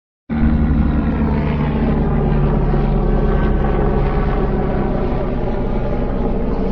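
Aircraft engines running loud and steady, with a deep hum under a broad rushing noise, cutting in suddenly just after the start.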